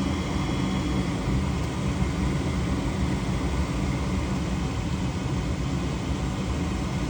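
Furnace running steadily with its thermostat bypassed by a jumper wire: an even rushing hum of its fan.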